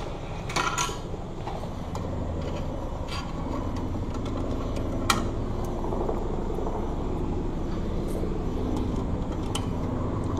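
Drink vending machine running its dispensing mechanism after the Coke button is pressed: a steady motor hum with a few light ticks and a sharp click about five seconds in, as the can is moved to the delivery slot.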